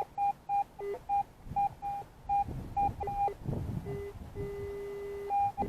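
Metal detector giving a target signal: short high beeps about three times a second as the coil is swept back and forth over the target, with a few lower-pitched beeps. About four seconds in comes a held lower tone, then one more high beep near the end. The high tone is the detector's response to a good target reading in the 60s.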